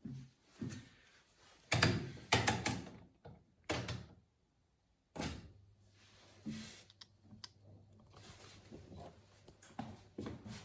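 Miele WS 5508 washing machine clunking and knocking several times, then a steady low hum sets in about five seconds in, with a few light clicks over it.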